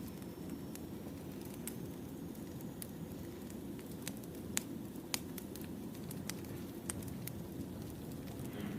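Wood fire burning: a steady low rumble with irregular sharp crackles and pops of the burning logs.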